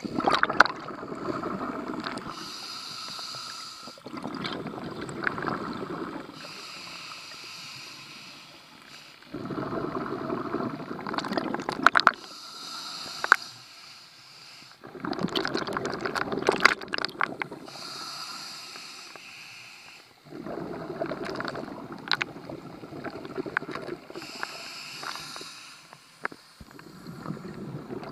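A scuba diver breathing through a regulator underwater. A short hissing inhale is followed by a longer, louder rush of crackling exhaled bubbles, and the cycle repeats about every five to six seconds.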